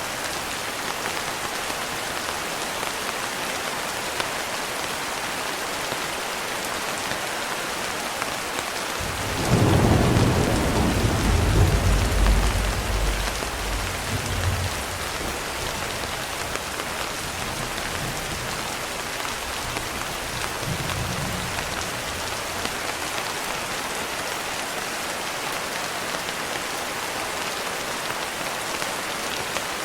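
Steady rain falling, with a clap of thunder about nine seconds in that rolls on for several seconds before fading. A fainter rumble of thunder follows about twenty seconds in.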